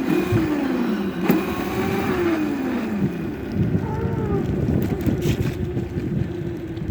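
Dirt bike being ridden, its motor's pitch falling over the first few seconds and rising again as it slows and picks up speed, over rough road and wind noise, with a sharp click about a second in.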